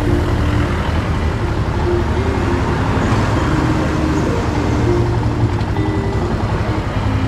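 Motorcycle riding along the road, with steady engine and road noise.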